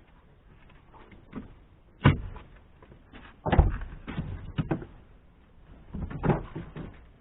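Knocks and clunks, with scraping and rustling, from interior trim being pried and pulled loose inside a small car: a sharp knock about 2 s in, a cluster of clunks a second or so later, and another group near the end.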